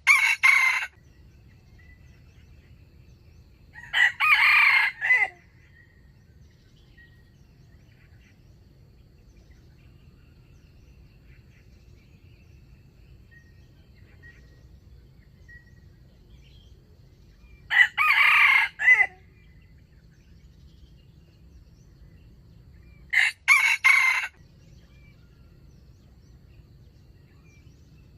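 Wild rooster crowing four times, each crow short, about a second long, with long gaps between them.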